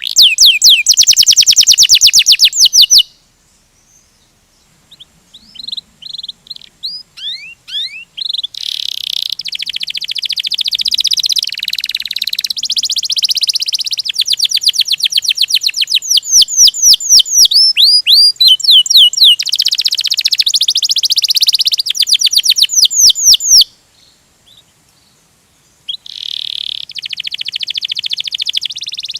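Domestic canary singing long, fast rolling trills of rapidly repeated high notes. The song stops twice for a moment: about three seconds in and again about three-quarters of the way through.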